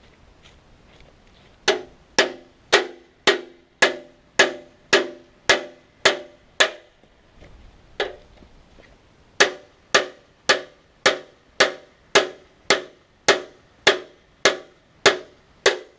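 Hammer blows on steel, each ringing briefly, struck steadily about twice a second: a run of about ten blows, a single blow after a pause, then about a dozen more.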